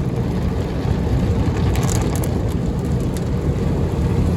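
Tunnel car wash heard from inside the car: a steady rumbling wash of spinning brushes and water against the body, with a few short sharper hisses of spray about two seconds in.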